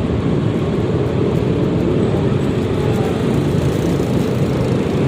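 Steady wind and road noise while riding a Yamaha XMAX 300 scooter, its engine running underneath.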